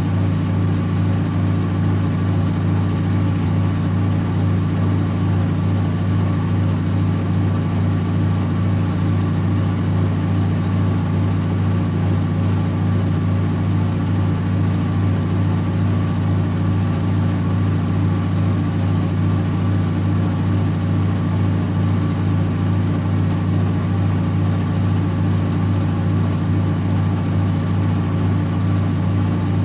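Servis Automatic M3008B washing machine on its 800 rpm final spin: the drum and motor spin at a constant speed, giving a loud, steady low hum.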